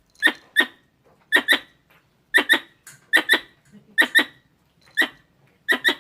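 Squirrel calling in short chirps, mostly in pairs about a fifth of a second apart, the pairs repeating about once a second.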